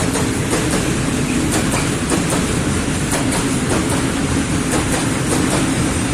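Freight train of coal wagons hauled by an ET42 electric locomotive rolling past, with a steady rumble and the clickety-clack of wheels over rail joints, a couple of clicks a second.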